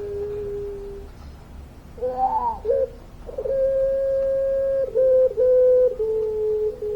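Puter pelung dove calling in long drawn-out coos. A held note fades out in the first second, a short wavering note comes about two seconds in, and then come long steady notes with brief breaks.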